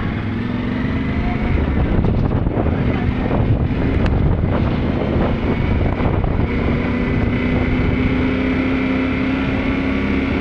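Yamaha Ténéré 700's parallel-twin engine running steadily under way, with a stretch of rough, crackling noise a few seconds in.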